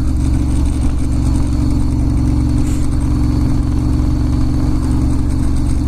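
Ducati Monster S2R1000's air-cooled L-twin engine running steadily at low, even revs, heard from the rider's own bike.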